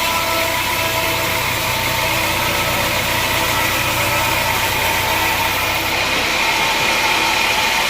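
Machinery engine running steadily at idle, with a low hum that drops away about six seconds in.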